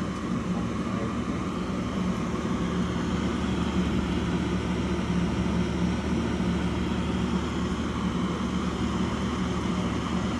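York 80% low-NOx gas furnace running in heat with its burners firing: a steady noise over a constant low hum.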